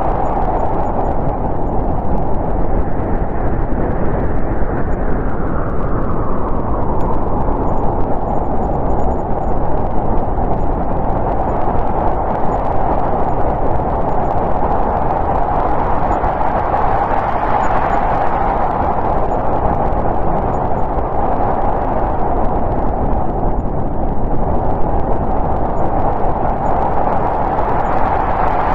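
Snowstorm wind blowing, a steady rushing that swells and eases in slow gusts, its pitch rising and falling over several seconds.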